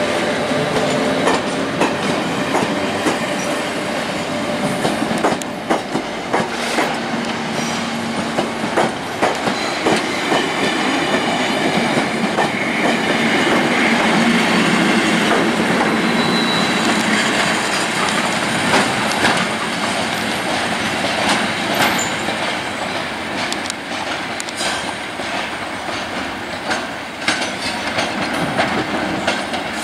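Test train of coaches hauled by Class 73 locomotives rolling past close by: a steady rumble of wheels on rail, with repeated clicks as the wheels pass over rail joints.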